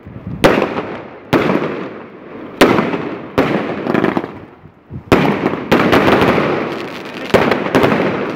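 Fireworks going off in a rapid barrage: about ten sharp, loud bangs, roughly one a second, each trailing off in a long fading echo before the next.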